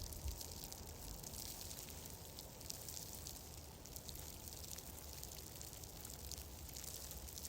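Wood fire crackling in a fireplace: a steady, faint bed of dense small pops and ticks over a low rumble.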